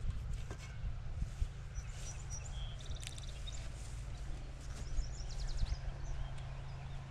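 Outdoor ambience: a steady low rumble with small birds chirping and trilling faintly now and then.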